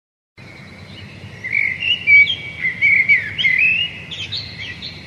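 Birds chirping: a quick string of short rising and falling calls over a faint low background noise, starting abruptly about half a second in.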